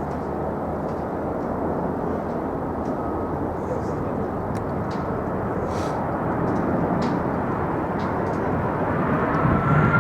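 Jet airliner engines rumbling steadily as the aircraft approaches, growing louder toward the end, with a faint engine whine rising and falling near the end.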